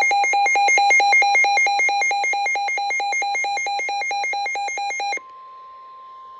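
A weather alert radio's alarm beeping loudly and rapidly, about five beeps a second. About five seconds in it cuts off, and a much quieter steady tone of about 1 kHz follows: the NOAA Weather Radio warning alarm tone that comes before a broadcast warning.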